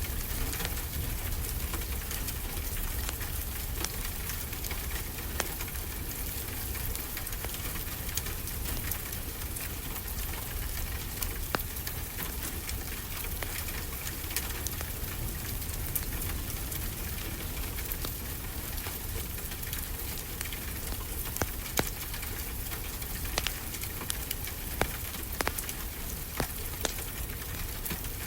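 Steady rain falling, with a low rumble underneath, and a wood fire giving off scattered sharp crackles every few seconds.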